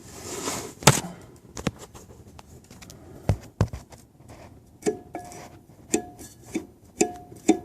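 Sharp metallic clunks and knocks, about ten of them at irregular intervals, several with a short ringing tone: a Honda K20A3's flywheel being rocked and knocked on its loose bolts, which had never been tightened to torque spec.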